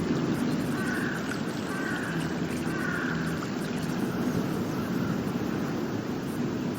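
Steady rushing of a shallow river flowing over gravel.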